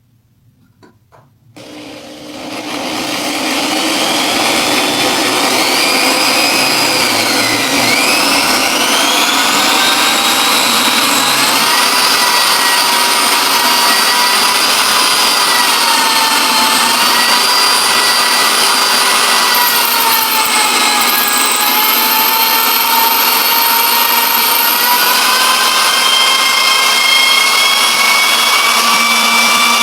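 Power-tool motor of a friction-welding setup spinning up after a couple of clicks and then running steadily with a loud whine, its pitch dipping and recovering several times.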